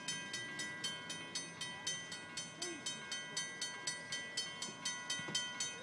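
CSX intermodal freight train rolling past, its wheels clicking over the rail joints in a steady rhythm of about four clicks a second, with a faint steady ringing underneath.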